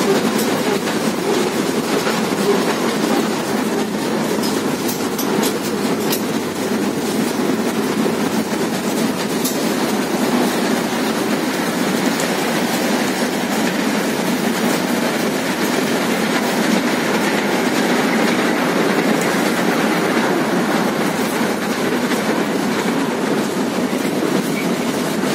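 Small amusement-park ride-on train running along its track, heard from inside an open carriage: a steady running noise with a few faint clicks.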